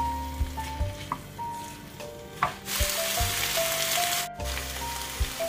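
Shrimp and octopus sizzling in a hot wok as they are stir-fried with a silicone spatula; the sizzle swells loud a little before halfway and breaks off suddenly about a second later, then carries on quieter. Light background music with a simple melody plays throughout.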